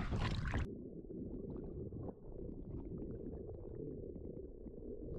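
A brief burst of splashing and wind noise, then from under a second in a steady, muffled underwater rumble and gurgle of water, as heard by a submerged camera at a boat's propeller being cleared of a plastic bag.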